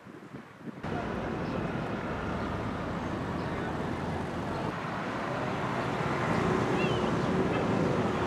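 Outdoor street ambience: steady traffic noise with a murmur of voices, starting abruptly at a cut about a second in and growing a little louder in the second half.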